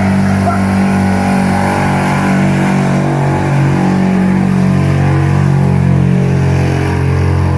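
Hot-stock 4x4 pulling truck's engine running loud at steady high revs under load during a pull.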